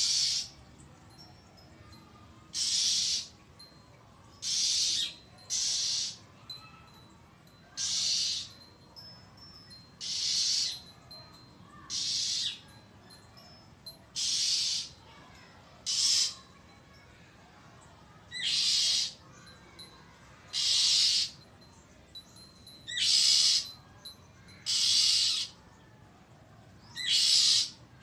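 Oriental magpie-robin giving its harsh, rasping scold call over and over, a threat call of alarm. About fourteen calls, each under a second, come roughly every two seconds.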